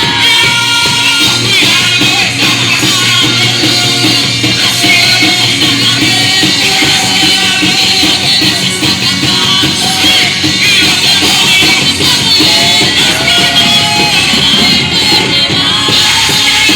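Live worship band playing loud rock-style music, with drums and cymbals, and voices singing over it.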